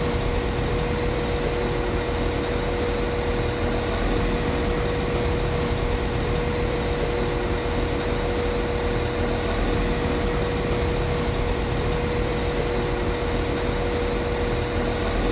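Class 195 CAF Civity diesel multiple unit's underfloor diesel engine idling steadily: an even low rumble with a steady hum held at one pitch.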